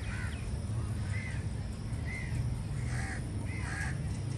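Birds calling with short arched calls, roughly one a second, over a steady low rumble.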